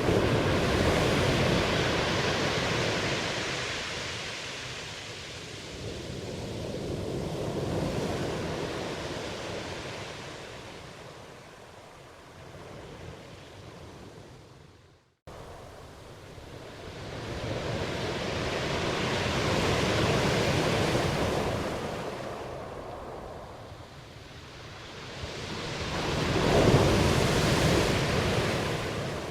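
Ocean waves breaking and washing up the shore. The surf swells and fades every several seconds, with a brief cut to silence about halfway through.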